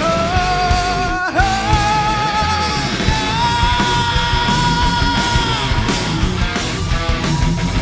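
Rock band playing loud, heavy metal-style music live, with distorted guitars and drums. Long wavering high notes are held over the top, briefly broken about a second in and then sustained higher.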